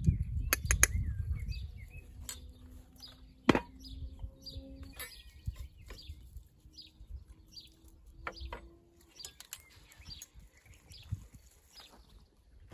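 Small birds chirping over and over, about two short calls a second, with a few sharp clinks of a fork against a china plate, the loudest about three and a half seconds in. A low rumble fades away over the first couple of seconds.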